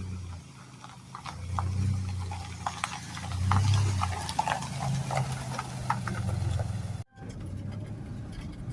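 Wind gusting on the microphone in low rumbling swells, with scattered short chirps and clicks over it. The sound drops out abruptly about seven seconds in.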